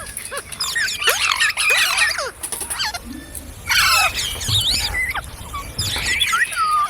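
Green parrots screeching and chattering: a rapid run of short, shrill calls that swoop up and down in pitch, overlapping one another, with a brief lull around two and a half seconds in.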